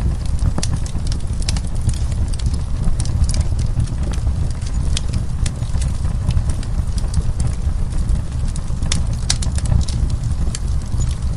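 Wood fire crackling, with many irregular sharp pops and snaps over a steady low rumble of the flames, a few louder pops about nine seconds in.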